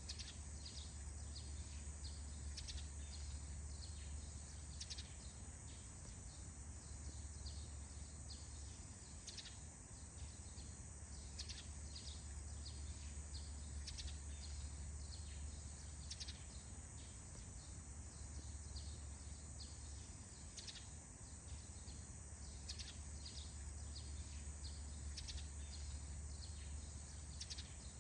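Forest birds chirping at dawn: many short, high chirps scattered throughout, over a steady high-pitched drone and a faint low hum.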